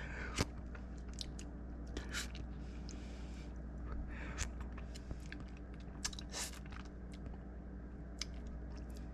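Pepper mill grinding black pepper in short, irregular crunching twists, with a steady low hum underneath.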